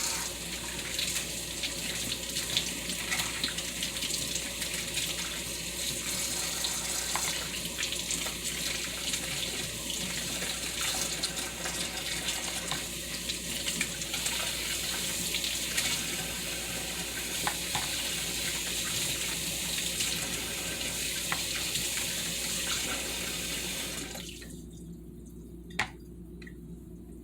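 Kitchen tap running in a steady stream as eggs are rinsed under it, with small clicks of the eggs being handled; the water shuts off about three seconds before the end.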